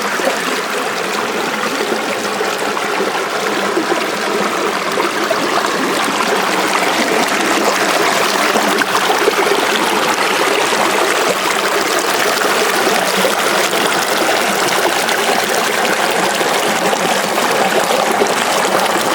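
Creek water running steadily over rocks, a continuous rushing trickle.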